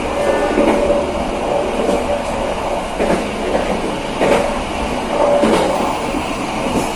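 KA Serayu passenger train running along the line: a steady rumble of wheels on rail, broken by a few short knocks from the track.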